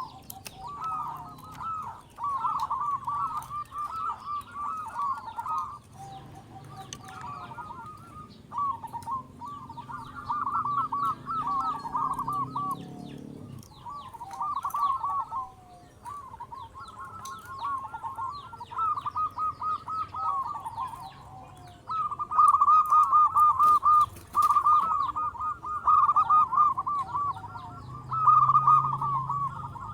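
Zebra dove (perkutut) cooing: phrase after phrase of quick, rolling coos with short pauses between, growing louder about two-thirds of the way through.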